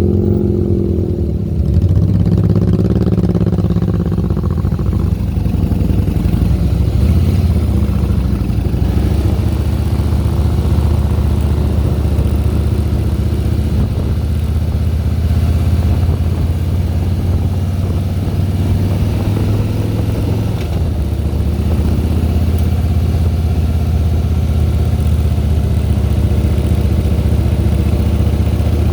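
Harley-Davidson Softail Deluxe's V-twin engine running while riding, its pitch shifting up and down in the first several seconds, then holding steady.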